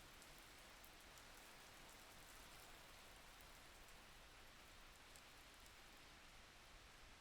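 Faint, steady rain ambience: a soft hiss of rainfall with scattered light drop ticks.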